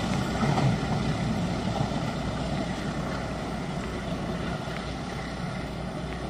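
Passing diesel-hauled passenger train rumbling, its engine and wheel noise fading steadily as it moves away.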